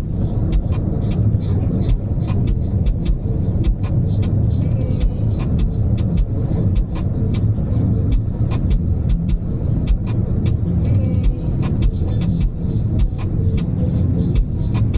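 A car driving, with a steady low rumble of engine and road noise and frequent sharp, irregular crackles throughout.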